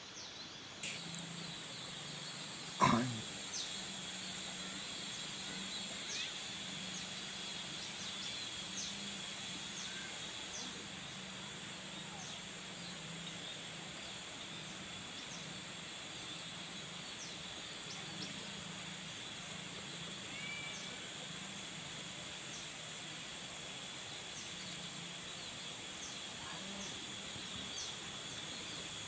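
Outdoor field ambience with repeated short high chirps from a flock of munias, over a steady high-pitched whine. A single sharp thump stands out about three seconds in.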